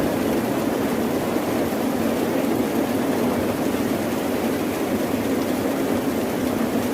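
Steady rain and ocean-surf noise: a dense, even rushing with a deep rumble under it and no separate drops or thunderclaps.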